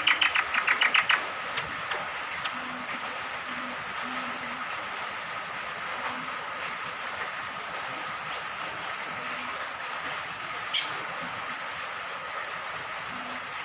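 A cucak kombok (kecial kombok) honeyeater ends a rapid chattering trill about a second in, over steady falling rain. About eleven seconds in there is one short, sharp high note.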